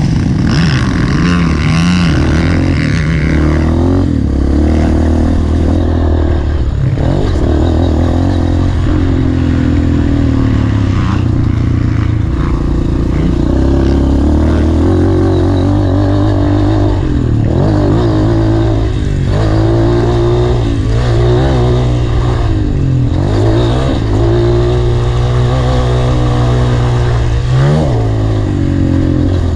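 Honda CRF230 dirt bike's four-stroke single-cylinder engine running hard under a rider, its pitch repeatedly rising and falling with throttle and gear changes, with several quick rev swoops in the second half.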